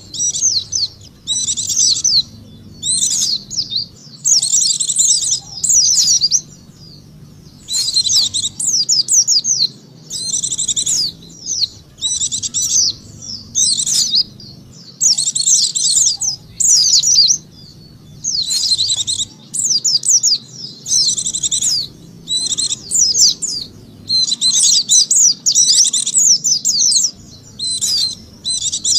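White-eye (pleci) twittering song, used as a lure call: quick high phrases of about one to two seconds, repeated with short pauses.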